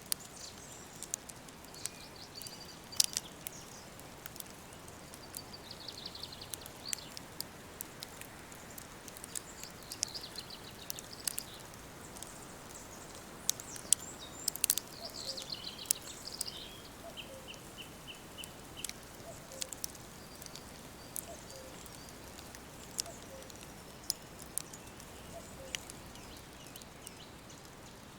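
Woodland ambience: several birds singing high chirps and trills, including a run of about six evenly spaced notes near the middle, over a soft steady hiss. Sharp clicks and crackles come scattered all through it.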